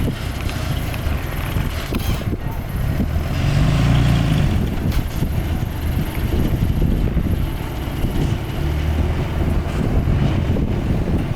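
Heavy diesel earthmoving machinery running with a low rumble that swells under load about four seconds in and again near nine seconds.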